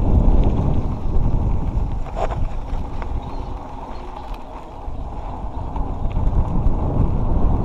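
Wind buffeting the microphone and mountain-bike tyres rumbling over a dirt trail on a fast descent, with a few sharp clicks and rattles from the bike. The rumble eases around the middle and builds again near the end.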